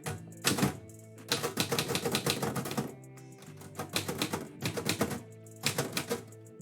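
Typewriter keys striking in quick runs of typing, several runs with short pauses between them, over background music with sustained low tones.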